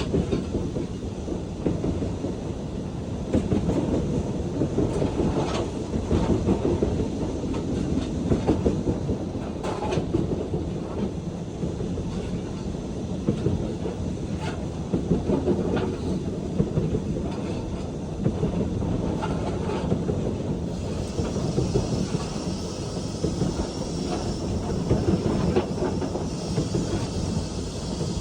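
Steam-hauled train running on the rails: a continuous heavy rumble with irregular clicks from the wheels over the track. A higher hiss joins in about three quarters of the way through.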